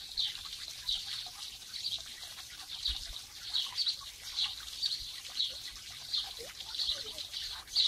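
A small bird chirping over and over, short high calls about two a second, over a faint steady background hiss.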